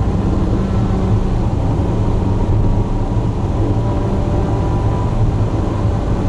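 Steady low rumble of a car's engine and exhaust with road noise, holding an even pitch without revving up or down.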